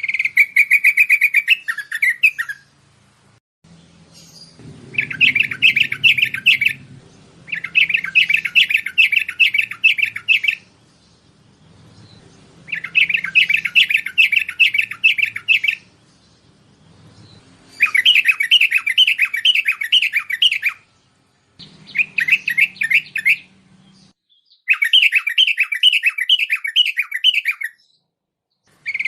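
Bulbul song played as a lure call for wild bulbuls: about seven bubbly phrases of fast repeated notes, each two to three seconds long, with short pauses between them.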